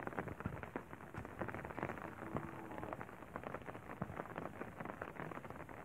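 Light rain pattering: a dense, irregular crackle of small drops.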